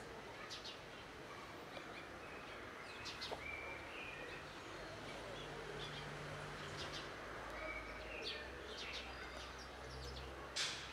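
Outdoor ambience with scattered short bird chirps over a steady background hiss. A low hum runs through the middle, and a brief louder burst of noise comes near the end.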